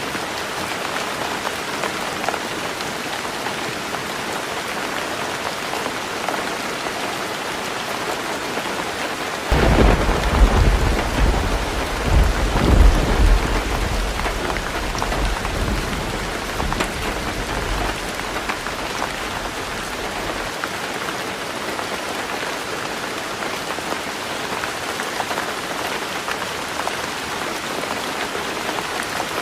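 Heavy rain drumming steadily on a tin roof. About a third of the way in, a sudden clap of thunder breaks and rolls on for several seconds before dying away.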